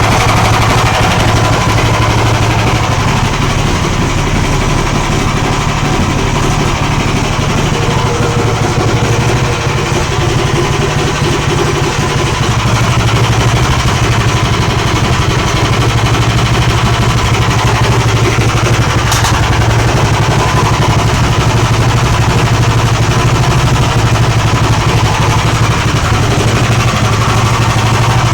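A new Magnum (Lifan) BS190F 15 hp single-cylinder four-stroke petrol engine running steadily at constant speed during its break-in run, with a fast, even exhaust beat. There is a brief sharp tick about two-thirds of the way through.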